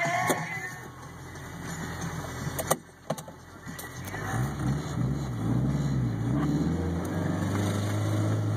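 1993 Ford Festiva's small 1.3-litre four-cylinder engine heard from inside the cabin, running low, then revving up and down a few times from about four seconds in and settling into a steady higher run. Two sharp clicks come about three seconds in, and music fades out at the very start.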